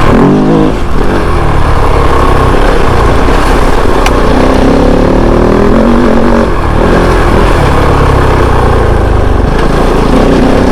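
Kove 450 Rally's single-cylinder engine running under load while riding, its pitch rising in the first second and then going up and down with the throttle.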